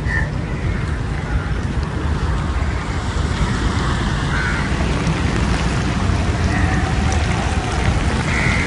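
Steady rush of sea surf and strong wind at the shore, heaviest in the low range, with a few short bird calls at the start and near the end.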